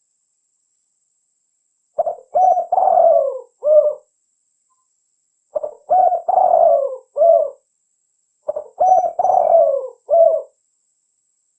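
Spotted dove cooing: three phrases of about four coos each, a couple of seconds apart, beginning about two seconds in. In each phrase the third coo is the longest and falls in pitch.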